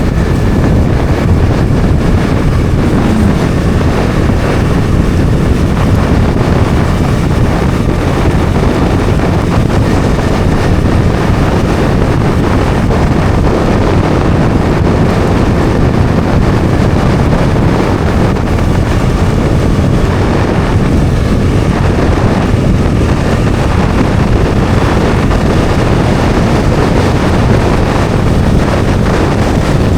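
Bajaj Dominar 400's single-cylinder engine running at a steady cruise, mixed with heavy wind buffeting on the microphone.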